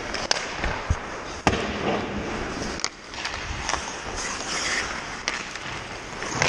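Ice hockey play: about six sharp, irregular knocks of sticks and puck over a steady rink hiss, the loudest about one and a half seconds in.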